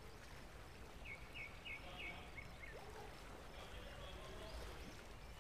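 Faint background ambience from the recording room, with a small bird chirping a quick run of about six short notes between about one and three seconds in.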